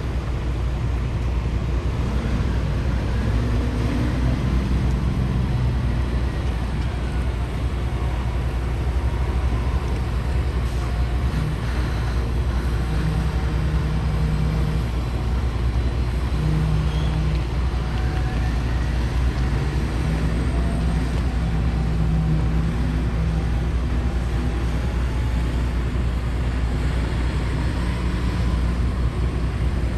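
Heavy diesel engines of large mining dump trucks running, a steady deep rumble whose engine note shifts up and down in pitch now and then.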